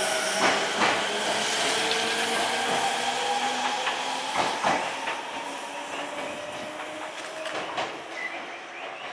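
HK100-series electric multiple unit pulling out and accelerating, its motor whine slowly rising in pitch, with a few wheel clacks over rail joints. The sound fades as the train draws away.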